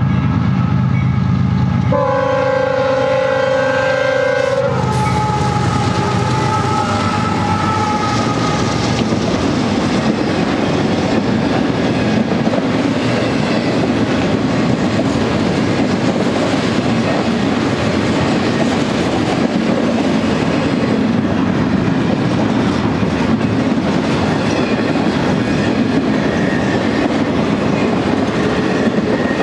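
BNSF freight train at a level crossing: the locomotive's horn sounds a long chord, which cuts off about five seconds in. The intermodal cars then roll past with a steady, loud rumble of steel wheels on the rails.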